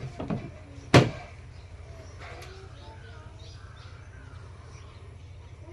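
A single loud slam or knock about a second in, with a few lighter clicks near the start, over a steady low hum and faint bird calls.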